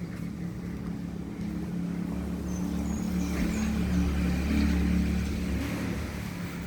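A vehicle engine droning as it passes, growing louder toward the middle and fading near the end.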